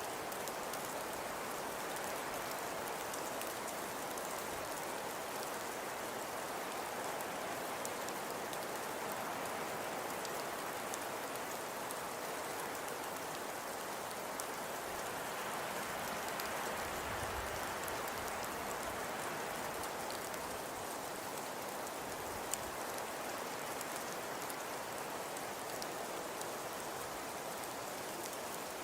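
Steady soft hiss with faint scattered crackles and ticks, the even noise of a fireplace-or-rain style ambience bed, with one sharper tick about 22 seconds in.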